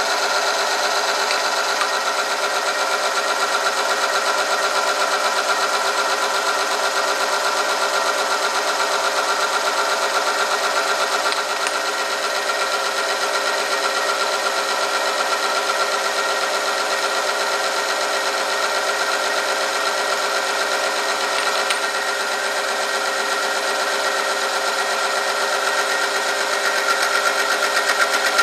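Oil-film strength test machine running steadily under load: an electric motor turns a spinning shaft rubbing against a metal test sample lubricated with Pakelo 2TS M two-stroke oil heated to 100°C, a steady, fast-rattling mechanical hum.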